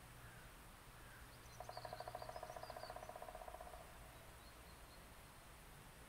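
Wild bird calls over quiet outdoor air: a rapid low trill of about ten notes a second lasting a bit over two seconds, fading at its end, with a few brief high chirps over its first half.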